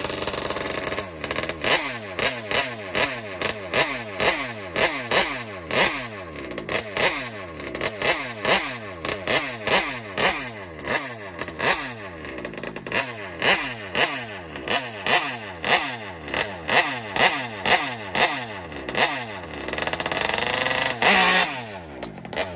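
Small two-stroke engine of a 71 cc large-scale RC car being warmed up with quick throttle blips, roughly twice a second, each rev falling back toward idle, then a longer held rev near the end. The engine is loaded up a little, running rich while still cold.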